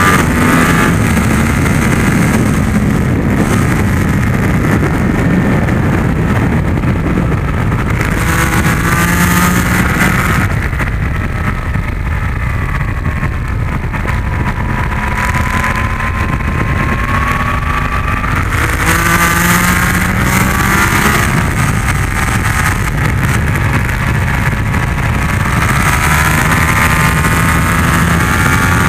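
Yamaha MT-10's crossplane inline-four engine at full track pace, heard from on board: the note climbs hard under throttle, drops and steadies through a corner about halfway, then rises again, with wind rushing over the microphone.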